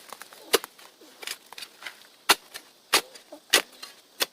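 A digging tool repeatedly striking and cutting into hard, dry clay soil with rocks in it: six sharp strikes, roughly one every two-thirds of a second.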